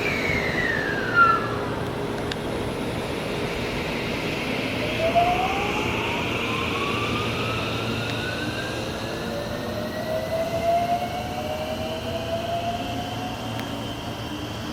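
Electric commuter train's inverter motor whine rising steadily in pitch as the train accelerates out of the station, over a steady rumble of the running gear. There is a short falling whine at the start, a short knock about a second in, and another just as the rising whine begins.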